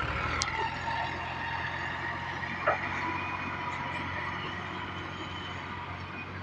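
Tractor engine running steadily and slowly fading, with a short sharp knock about two and a half seconds in.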